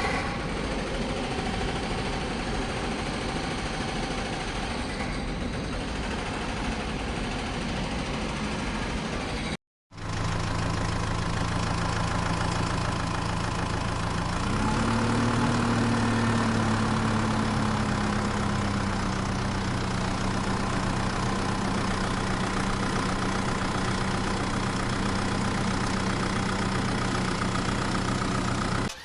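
A vehicle engine running steadily, with a rough, noisy sound for the first ten seconds. It cuts off briefly, then comes back as a steady engine hum. About fifteen seconds in, the hum rises a little in pitch and settles again.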